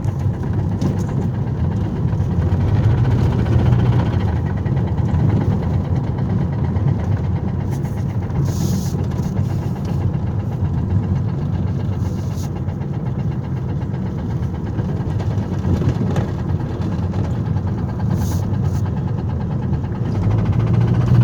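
Car engine running while driving with a rod knock: a rapid, steady knocking over the engine note, the sign of a worn connecting-rod bearing.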